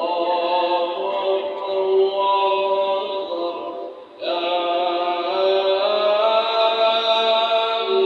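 A voice chanting in long, held melodic phrases, with a short break about four seconds in before the next phrase begins.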